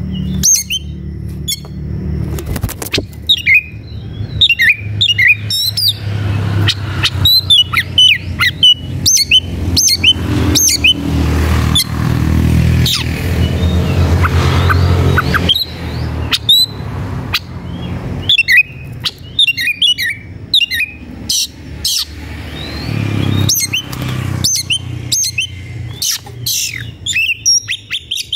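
Oriental magpie-robin (kacer) singing hard in rapid runs of sharp whistles, chirps and harsh notes: the agitated song of a male in fighting mood, challenging a rival. A steady low hum runs underneath, loudest in the middle.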